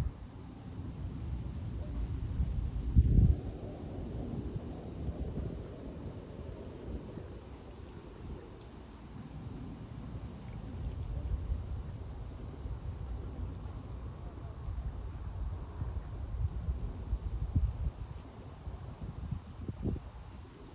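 An insect chirping in a steady train of evenly spaced, high-pitched pulses, like a cricket, over a low rumbling noise that swells briefly about three seconds in.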